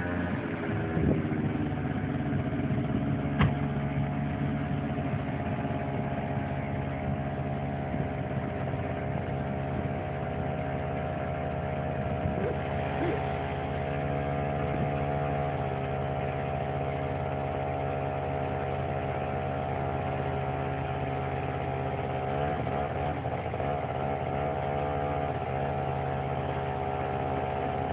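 Peugeot 106's engine running steadily at idle as the car creeps along in gear, its pitch wavering slightly near the end.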